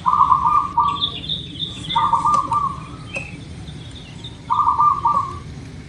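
Zebra dove cooing: three short, rapid rolling coo phrases a second or two apart, with small birds chirping fainter and higher behind.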